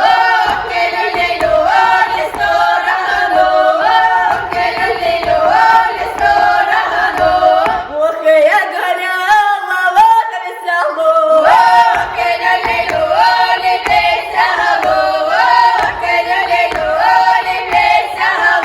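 A choir of high voices singing a lively folk song a cappella, the melody stepping up and down in short repeated phrases.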